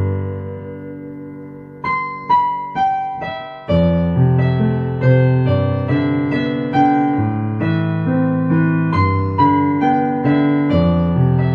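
Slow, soft ambient piano music. A held chord fades away, a few single high notes sound alone, then low bass notes and chords come back in at an unhurried pace, each note dying away after it is struck.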